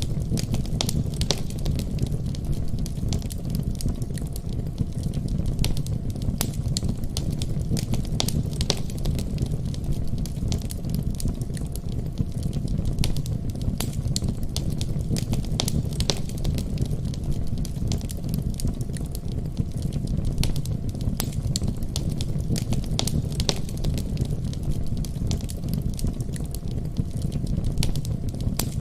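Wood fire burning in a fireplace: a steady low roar of the flames with frequent sharp crackles and pops.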